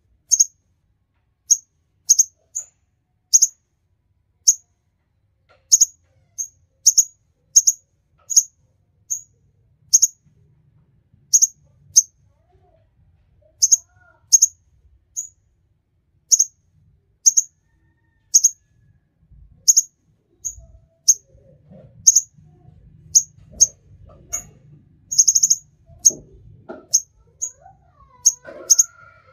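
Small songbird giving short, sharp, high-pitched chirps one after another at an uneven pace, about one or two a second. A faint low rumble joins in after about twenty seconds.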